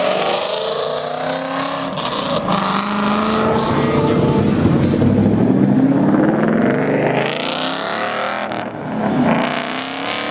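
Cars accelerating away one after another, their engines revving up through the gears, with one rising pass near the end.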